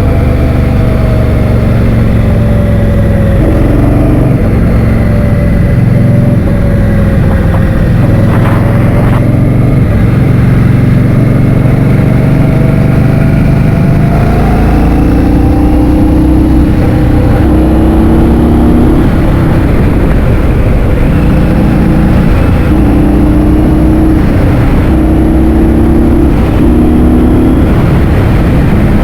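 Loud wind rumbling on the microphone of a moving vehicle, with the engine's note underneath drifting down and up in pitch as speed changes.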